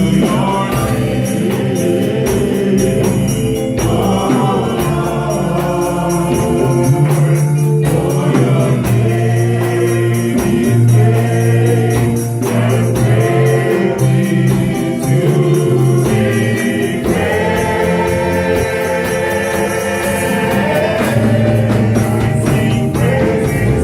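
Gospel worship music: a choir singing with a band, over a steady beat with jingling percussion such as a tambourine.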